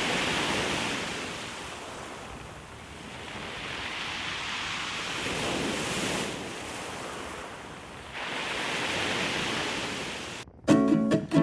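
Sea waves breaking and washing on the shore, rising and falling in three surges. Near the end the surf cuts off and plucked acoustic guitar music begins abruptly.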